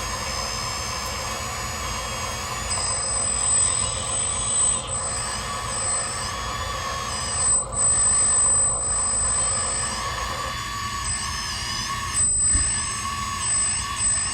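Several RC construction models (excavators, dump trucks and a loader) running together: the whine of their electric motors and hydraulic pumps, many high tones rising and falling in pitch as the machines move and work, over a low steady rumble.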